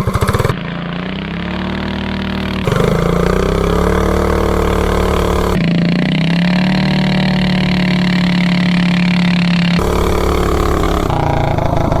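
Predator 420cc single-cylinder engine with a header pipe and its governor removed, revving hard at full throttle as the minibike launches through a 30 series torque converter. The pitch climbs over the first few seconds, then holds high and steady.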